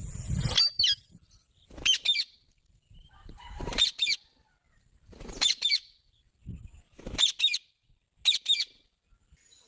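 Parrot giving short, sharp, high-pitched chirps, singly or in quick pairs, about six times with pauses of a second or so between.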